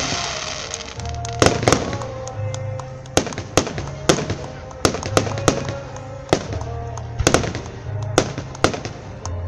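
Aerial fireworks shells bursting close by: a rapid, irregular series of sharp bangs, often two or three in quick succession.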